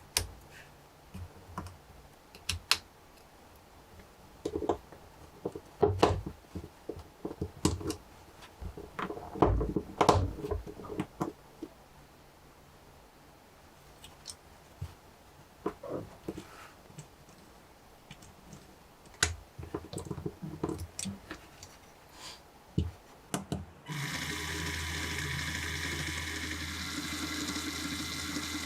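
Lego Technic parts being handled and snapped together, irregular clicks and knocks, as a three-cylinder W engine model is assembled. Near the end a motor suddenly starts and spins the Lego engine, giving a steady whirring hum.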